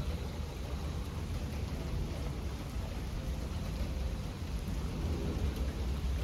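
Steady rain with a low, continuous thunder rumble underneath, swelling slightly near the end.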